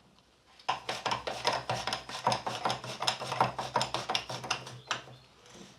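Metal clinking and knocking, a rapid irregular run of sharp clicks from about a second in until near the end, as a hub bearing nut on a Land Rover rear axle is worked up tight with a spanner. A steady low hum runs under it.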